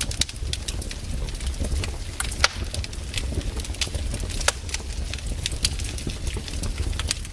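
Wood campfire crackling with irregular sharp pops, the loudest about two and a half seconds in and again at four and a half, over a steady low rumble.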